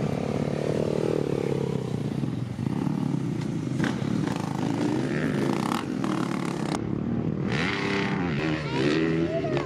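A 250 dirt bike's engine being ridden, its revs climbing and dropping again and again as the throttle is opened and closed, with quicker rev changes near the end.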